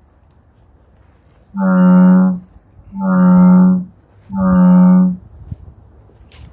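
Three long, steady horn-like tones of one unchanging pitch, each just under a second long and evenly spaced about a second and a half apart.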